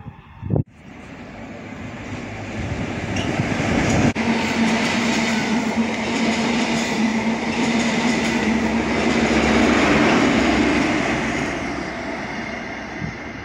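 A GWR High Speed Train, Class 43 diesel power car and Mk3 coaches, passing close by at speed: wheel and rail rumble with a steady engine note that builds to its loudest about ten seconds in, then fades as the train runs away. There are abrupt cuts in the sound about a second in and again about four seconds in.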